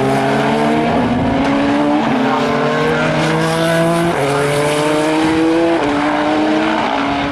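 Race car engine accelerating hard up through the gears, its pitch climbing and then dropping at each of about five upshifts.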